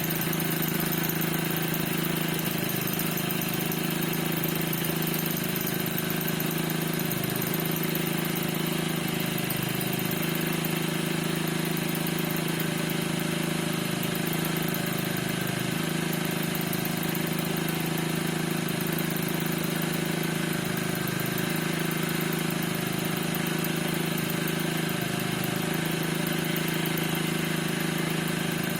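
Piaggio NRG 50 scooter's 50 cc two-stroke engine idling steadily, with a squeak from the engine whose cause the owner does not know.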